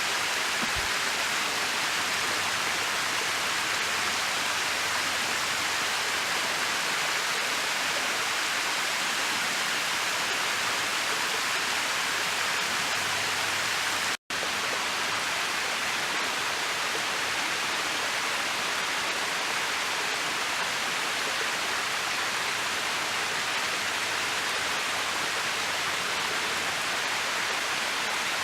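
Mountain waterfall cascading over smooth rock: a steady rushing hiss of falling and sliding water. It cuts out for an instant about halfway through.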